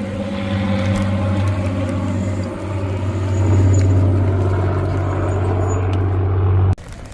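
Motor vehicle engine running close by, a loud, steady low hum over road noise that swells slightly and then cuts off abruptly near the end.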